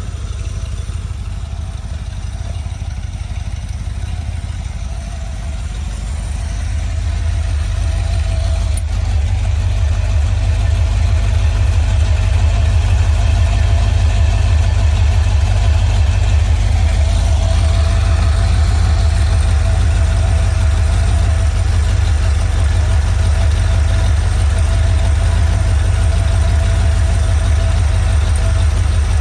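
Carbureted 4.0-litre Rover V8 running on an engine stand, idling steadily at operating temperature. The engine note grows louder over the first ten seconds or so, then holds even.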